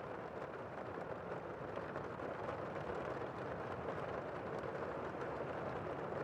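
Steady rain: a dense, even hiss with faint scattered drop ticks through it.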